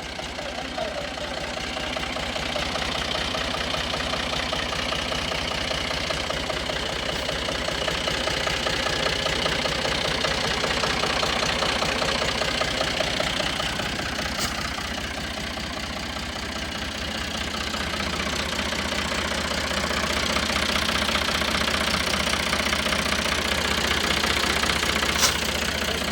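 Ford 4610 tractor's three-cylinder diesel engine running, its sound swelling and easing a little twice. A single sharp click comes near the end.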